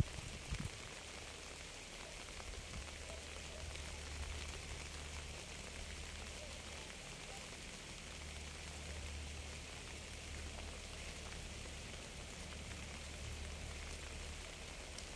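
Steady rain falling, an even hiss of drops on surfaces, with a low steady rumble underneath.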